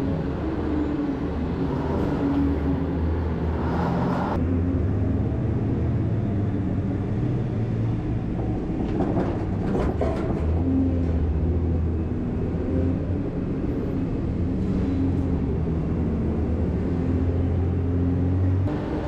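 A heavy vehicle's engine running steadily, its low hum stepping up and down in pitch now and then, with a few short knocks about halfway through.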